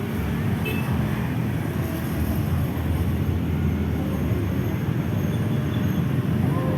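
Airliner engines running, heard as a steady low rumble that grows slowly louder.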